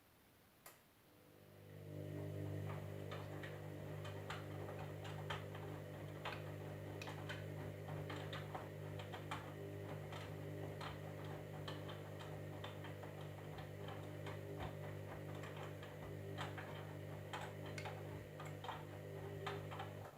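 Candy washing machine running: a single click, then a steady motor hum with many irregular light clicks and ticks over it, cutting off suddenly near the end.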